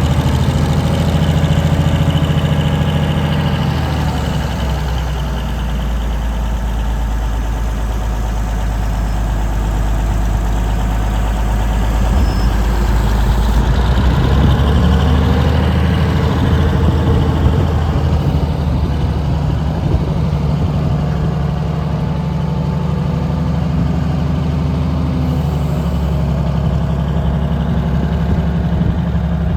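1976 Drott 2510 truck crane's engine running, its speed easing down a few seconds in and picking up again about halfway through.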